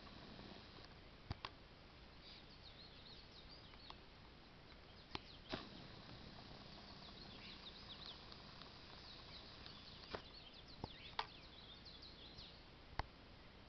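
Small birds chirping faintly in quick, high, scattered calls, over a quiet outdoor background, with several sharp clicks dotted through, the loudest near the end.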